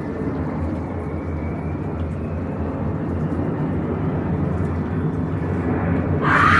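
Steady low rumbling background noise, with a short, louder rasping burst near the end.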